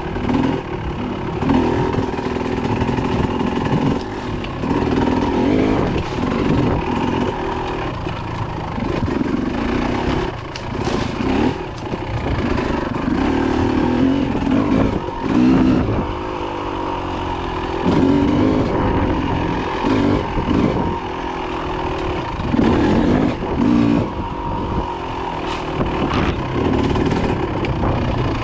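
Dirt bike engine running under load on a trail, revving up and down over and over as the throttle opens and closes, with rattling and rushing noise mixed in.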